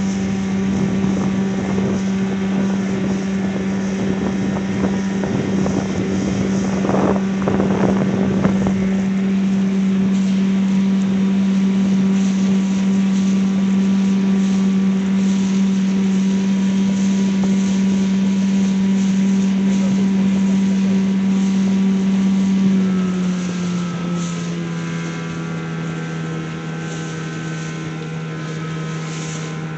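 Evinrude (Johnson) 9.9 hp outboard motor running steadily under way, with wind on the microphone. About three-quarters of the way through, its note drops a little in pitch and gets quieter.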